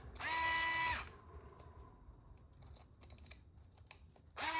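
Cordless drill-driver motor spinning twice briefly, each run a steady whine of about a second that winds up and then down, one near the start and one near the end. Faint light clicks come between the two runs.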